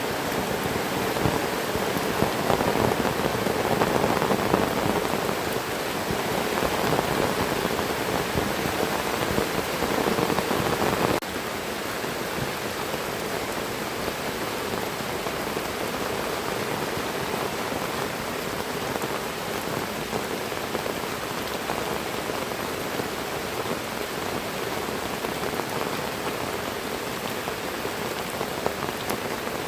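Heavy rain falling steadily in a dense hiss of drops. About eleven seconds in the sound suddenly becomes somewhat quieter and less full in the middle range, then carries on evenly.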